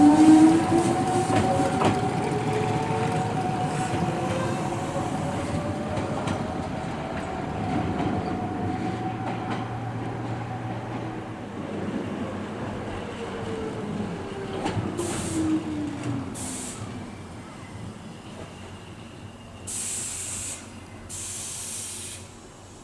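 Electric train pulling out, its motor whine rising in pitch and fading away. After the midpoint a second electric train draws in with a falling whine, and several short hisses of air follow as it comes to a stop.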